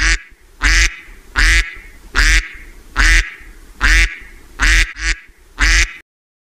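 Duck quacking: a run of about nine loud, short quacks, a little under a second apart, ending about six seconds in.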